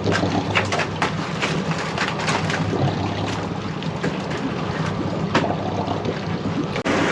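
A boat engine running steadily at low speed, with frequent sharp clatters and knocks over it, typical of crab traps being worked on deck.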